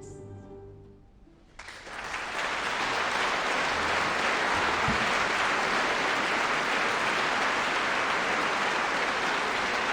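The last note of the song dies away, and after a short pause an audience breaks into steady applause about a second and a half in.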